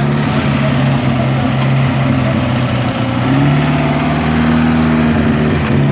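A car engine running at low speed, its pitch rising a little about halfway through.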